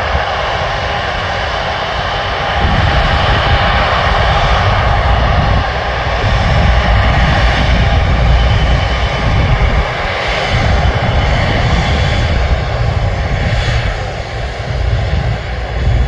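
Airbus A330-200 airliner's jet engines running as it taxis: a steady whine and hiss over a low rumble that swells and fades, growing a little louder about three seconds in.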